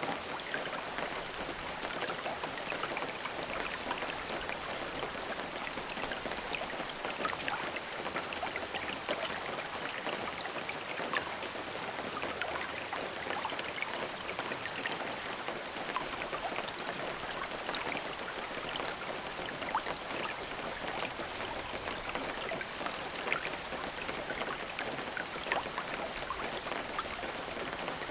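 Steady rain falling, a constant hiss dotted with many small drop ticks, with no thunder.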